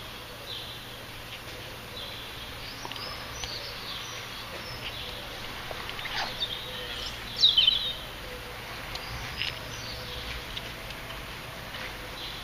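Small birds chirping and calling on and off, with one louder quick run of chirps about seven and a half seconds in, over a faint steady low hum.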